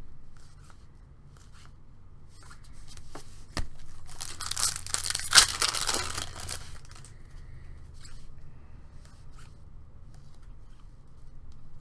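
A foil trading-card pack being torn open: a crinkling tear starting about four seconds in and lasting around three seconds. Light clicks and rustles of cards being handled come before and after it.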